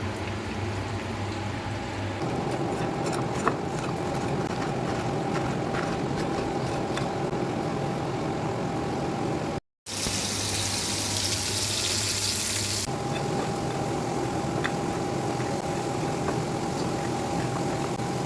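Seasoned steak meat sizzling in a frying pan, with faint crackles over a steady kitchen hum. After a cut about halfway through, a louder, bright hiss lasts about three seconds.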